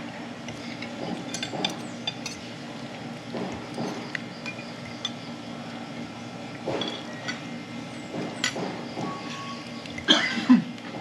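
Scattered clinks of cutlery and dishes over a murmur of background voices, with a louder voice near the end.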